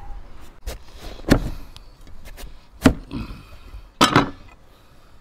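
Cleaver chopping through a peeled winter melon onto a plastic cutting board: a lighter knock, then three loud chops over about three seconds.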